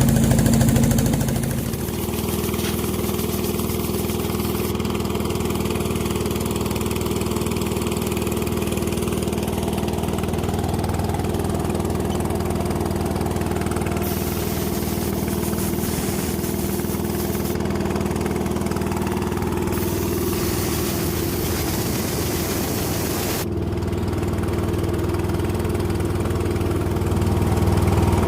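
An engine running steadily at idle. It drops in level about a second and a half in and picks up again near the end.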